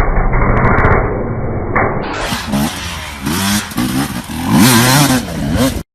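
Motorcycle engine running steadily and muffled. About two seconds in, it cuts to a motorcycle engine revving up and down repeatedly, its pitch rising and falling several times.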